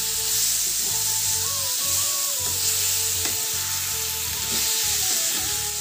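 Raw chicken pieces sizzling in hot oil with fried onions and spices in a kadai, stirred with a wooden spatula that scrapes and knocks against the pan now and then.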